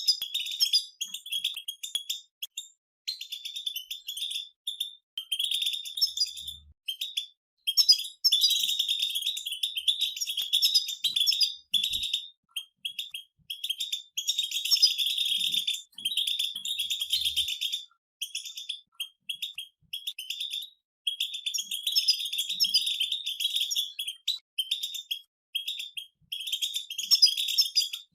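Several European goldfinches singing together: rapid twittering phrases of one to a few seconds, separated by short pauses.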